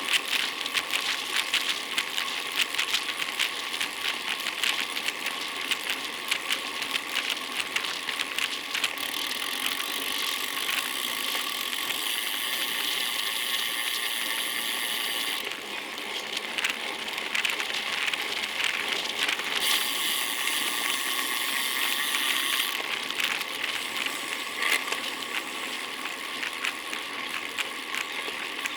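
Bicycle being ridden, heard close up: rapid small clicks and rattles over a steady hiss of tyres and moving air, with the hiss louder for two stretches in the middle.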